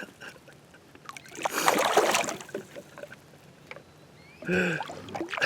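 Water splashing beside a kayak as a hooked largemouth bass is brought up to the boat. There is one loud splash about a second and a half in, and a short vocal grunt near the end.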